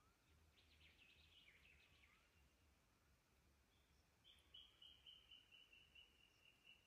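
Faint forest birdsong: a short jumble of chirps, then from about four seconds in a steady run of quick, identical high notes, about four a second.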